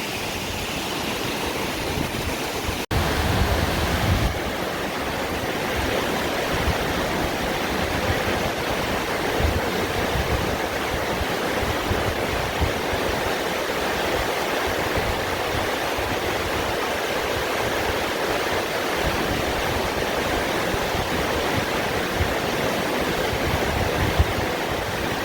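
Waterfall rushing in a steady, continuous roar of water, with a brief dropout about three seconds in.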